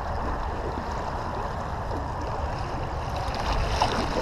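Steady rush of flowing river water with a low rumble underneath.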